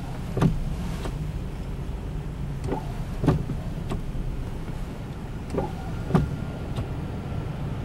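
Steady low engine and road rumble inside a slow-moving car in snow. Over it, pairs of short falling swishes repeat about every two and a half seconds.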